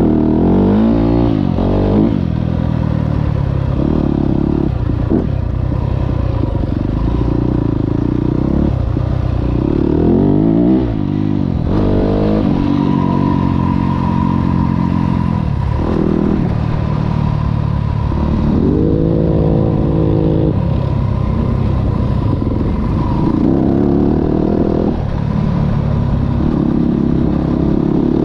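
Yamaha 450 single-cylinder four-stroke dirt bike engine being ridden, its pitch repeatedly rising under throttle and dropping off as the rider accelerates, shifts and backs off.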